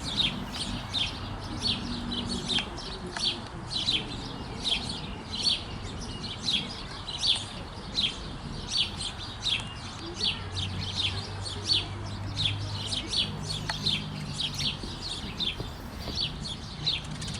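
A group of sparrows chirping busily: short, sharp chirps repeating several times a second, overlapping without a break.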